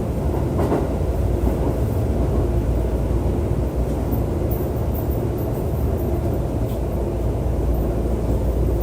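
JR East E531 series electric train running at speed: a steady rumble of wheels on rail, with a faint steady hum above it.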